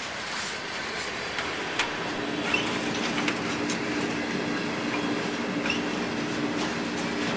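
Train rolling past, its wheels clicking over the rail joints with a steady rumble, and a steady low drone joining in about two seconds in.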